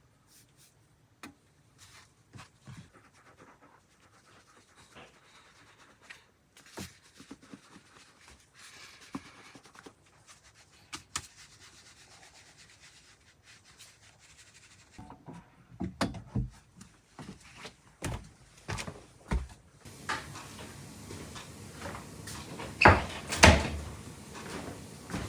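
Scattered knocks, taps and rubbing of things being handled, sparse and faint at first, then louder and more frequent in the second half, with a few loud knocks near the end.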